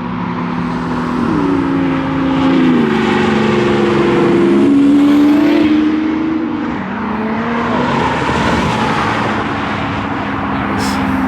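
A car accelerating past, its engine note climbing in steps. The roar builds to its loudest about five seconds in, then eases off.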